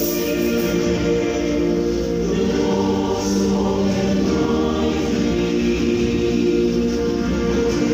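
A choir singing in harmony, holding long notes that change every second or so.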